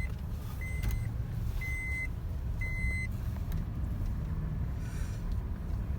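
Electronic beeping from a children's ride-on car: a short, high beep about once a second, four times, stopping about three seconds in. A steady low rumble runs underneath.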